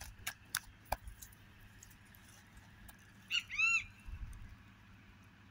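A bird gives two short calls, each rising then falling in pitch, about three and a half seconds in, after a few sharp clicks in the first second.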